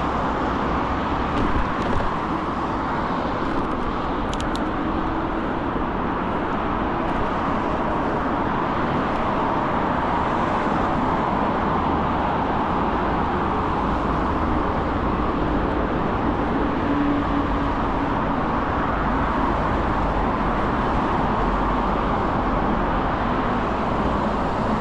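Steady rush of wind and road noise while riding an iKingi S6 Pro electric bike on pedal assist.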